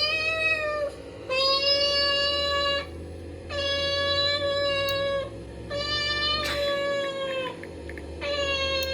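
A sound effect played to desensitize a horse: five held, high, pitched calls in a row, each about a second and a half long and dipping slightly in pitch as it ends, over a steady low hum.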